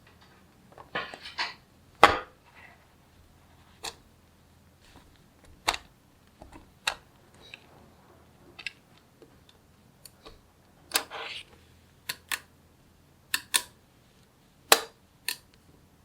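Small neodymium magnetic balls snapping together: sharp, irregular clicks, with two short rattling clusters, about a second in and about eleven seconds in, as several balls clatter against each other.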